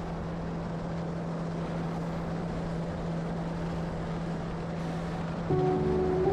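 Motorboat running on the water with steady engine drone and wind noise on the microphone. Near the end it gets louder as music with changing notes comes in.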